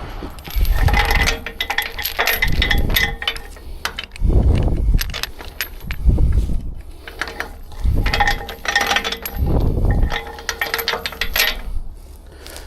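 Steel recovery chain rattling and clinking as it is handled, in several bursts of jingling metal rings with a few duller knocks in between.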